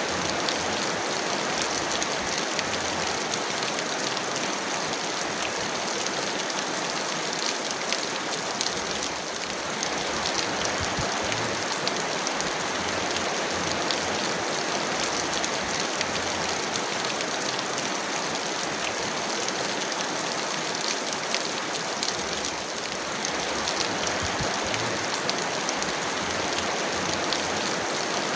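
Heavy rain falling steadily: a dense, even hiss of rain with fine drop ticks through it, easing slightly twice.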